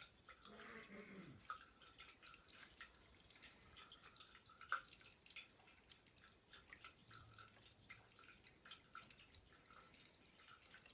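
Faint, irregular dripping of water from a tap into a sink, small drops falling several times a second.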